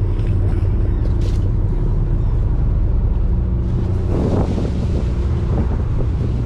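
Fishing boat's engine running with a steady low drone, and a short louder rush of noise about four seconds in.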